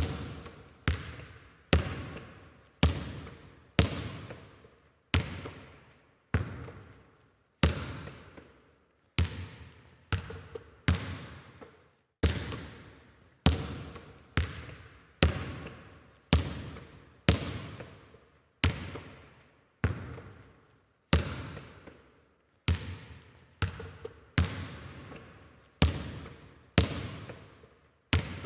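A basketball being dribbled, bouncing about once a second at a slightly uneven pace. Each bounce is a sharp slap that echoes and fades before the next.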